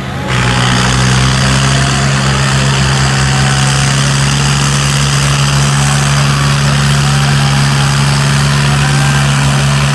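Tractor diesel engine running loudly at a steady speed, its level jumping up just after the start and then holding even.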